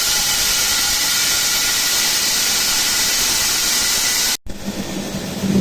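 Power tool working into a masonry wall: a loud, steady hiss with a faint whine that cuts off abruptly about four and a half seconds in, followed by a lower-pitched motor hum.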